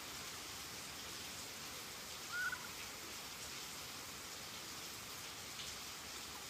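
Steady hiss of heavy rain falling. About two seconds in comes a single short, high squeak.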